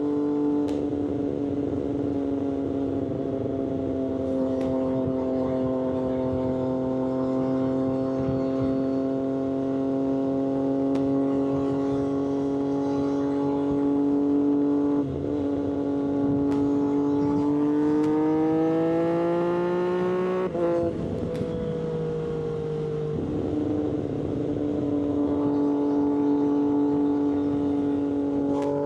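Triumph Street Triple 765RS three-cylinder engine through an SC-Project exhaust, cruising at fairly steady revs. The revs climb for a few seconds and break briefly about 20 seconds in, as at a gear change, then hold steady.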